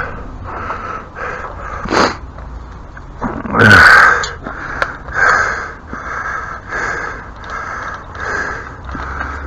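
Animal calls: a few loud, separate calls in the first half, then a steady run of repeated calls, about two a second.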